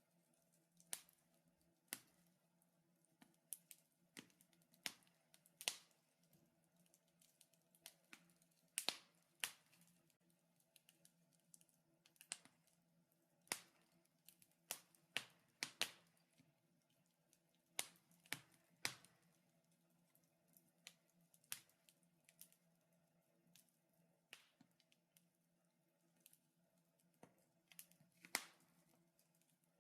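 Wood fire crackling in a fireplace: irregular sharp pops and snaps from the burning logs, some louder than others, over a faint steady low hum.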